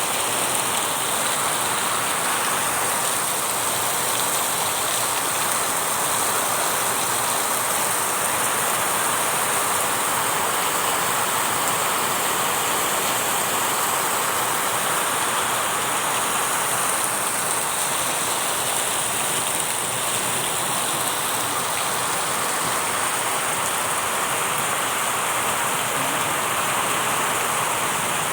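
Steady rain falling, an even hiss of rain on surfaces that holds constant throughout.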